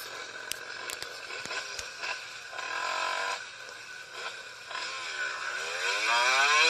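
Motorcycle engine running over road noise, with a couple of sharp clicks in the first second; from about four and a half seconds in its pitch climbs steadily as the bike accelerates.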